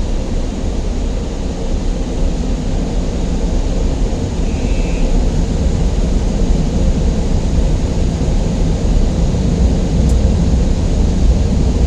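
Car wash air dryer blowers running with a steady, loud roar, heard from inside the car's cabin as the car is dried.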